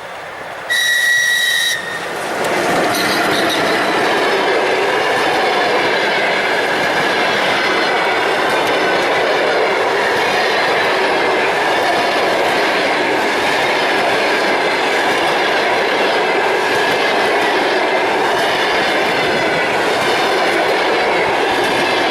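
A ČS2K DC electric locomotive sounds its horn once, a steady pitched blast about a second long. The locomotive and its passenger train then run past close by in a loud, steady rush that lasts to the end.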